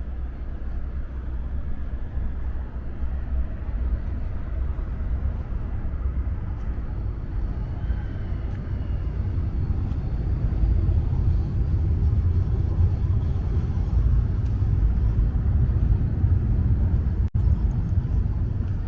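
Steady low outdoor rumble that swells and grows louder about ten seconds in.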